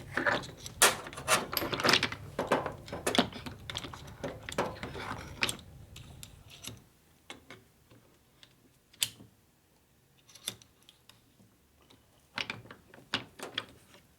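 Small metal tool parts of a universal tube-flaring kit being handled, a quick run of clicks and clattering for the first half, then a few single clicks spaced out. A low hum under the clatter stops about seven seconds in.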